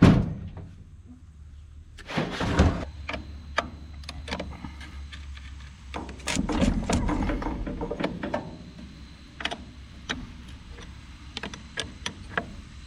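Hands working on an old backhoe's engine bay: a loud clunk at the start, then scattered clicks and knocks of metal parts being handled, with a low rumble of handling noise partway through.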